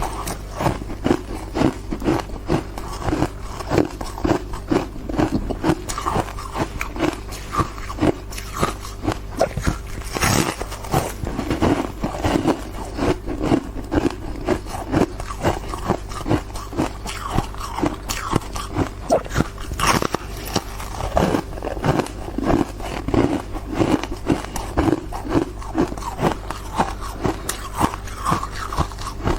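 Ice being crunched and chewed, a steady run of crisp bites about two a second.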